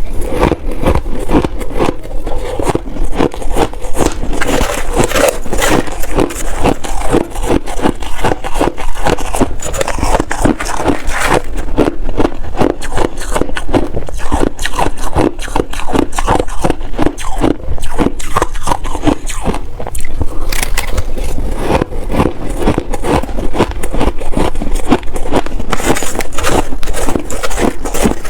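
A person crunching and chewing big bites of frozen shaved ice, a loud, rapid, unbroken run of crunches.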